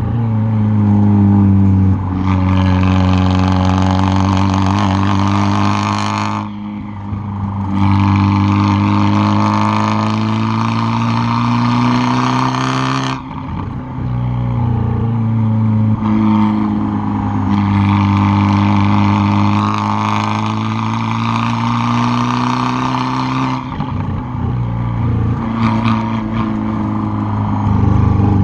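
2013 Fiat 500 Abarth's tuned 1.4-litre turbocharged four-cylinder, heard loud at the exhaust while driven hard under load. It holds long pulls, with the note breaking off briefly as the throttle lifts about six seconds in, around thirteen seconds, and twice near the end.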